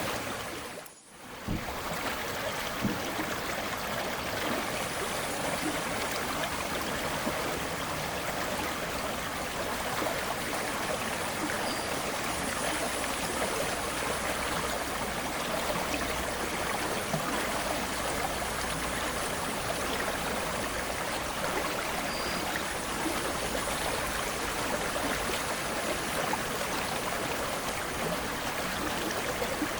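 Flowing river water, a steady rushing and trickling. It dips out briefly about a second in, then carries on unchanged.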